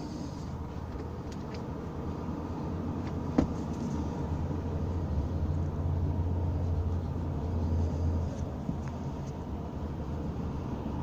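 A road vehicle passing: a low engine and road hum that grows louder around the middle and then fades, with a single sharp click a few seconds in.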